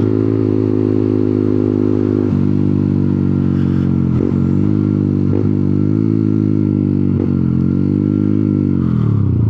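125cc motorcycle engine running under way, its pitch dipping briefly and recovering a few times as gears change, then falling away near the end as the bike slows.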